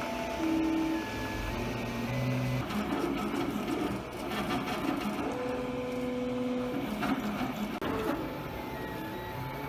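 FDM 3D printer at work, its stepper motors whining in tones that jump from one pitch to another as the print head changes moves.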